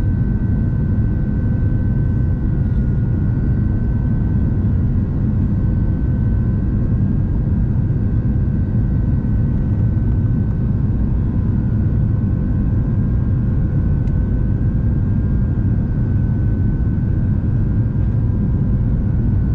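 Steady cabin noise inside an Airbus A350-900 in flight: a low, even rush of airflow and engine noise with a few faint steady tones over it.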